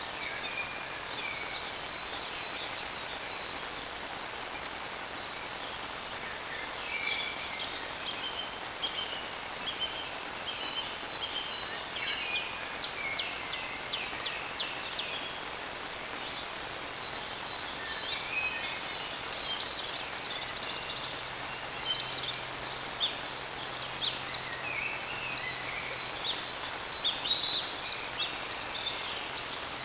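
Small birds chirping and trilling in short, scattered phrases over the steady hiss of a trail camera's built-in microphone.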